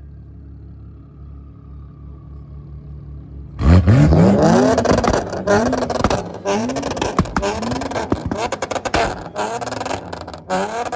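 Car engine idling low, then about three and a half seconds in it is revved hard again and again, the revs climbing and dropping about once a second, with sharp cracks near the end.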